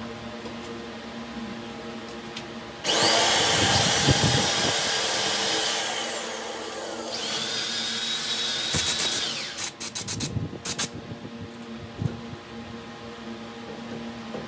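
Electric power tool whining at high speed, starting suddenly about three seconds in. Its pitch sags as it works, then recovers, before it shuts off, followed by a few short blips. A steady machine hum runs underneath.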